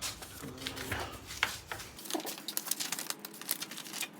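Pages of a paper instruction booklet being flipped through: a quick run of light papery flicks and rustles.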